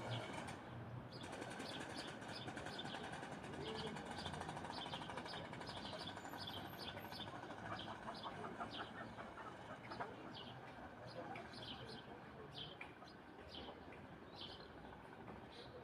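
Birds chirping faintly in the evening: short high calls repeated irregularly, a few each second, over a low steady outdoor background.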